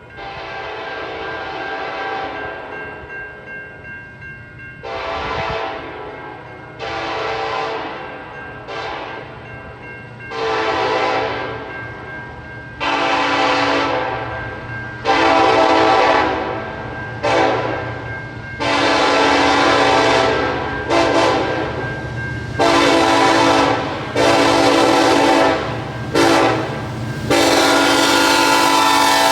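Canadian National freight locomotive's Nathan K5LLA five-chime air horn blowing a long series of blasts, mostly long with a few short ones, growing louder as the train approaches and ending in one long held blast. A low locomotive rumble runs underneath.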